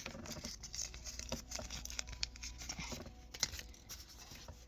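Faint handling noise: soft crinkles and light scattered clicks as small toys are picked up and handled.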